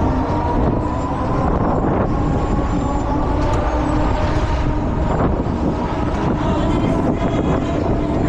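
Fairground thrill ride running at speed, heard from on board: a steady, loud mechanical rumble of the ride's drive and wheels with a faint whine that rises slowly in pitch.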